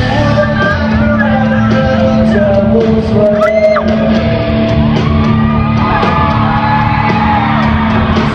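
Rock music with singing, and whooping, shouting voices over it.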